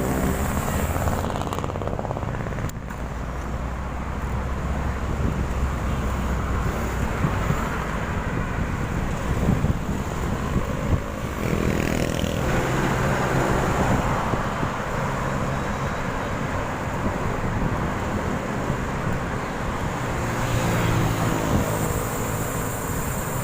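Road traffic: motor vehicles running past over a steady rush of road noise, with engines passing close about halfway through and again near the end.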